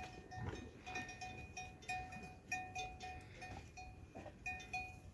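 Metal livestock bell clanking in short, uneven strokes, a few a second, as an animal of the flock moves.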